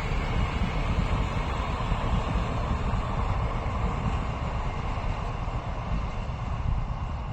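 Train running past with a steady rumble, easing slightly near the end.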